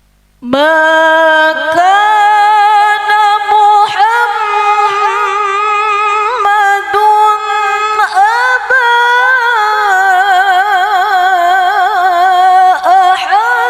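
A woman reciting the Quran in a melodic chant. Her single voice comes in about half a second in and holds long notes with quick wavering ornaments in the pitch.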